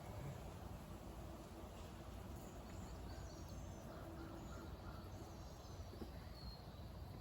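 Honeybees buzzing faintly at an open hive, a low steady hum, with a few short bird chirps in the middle.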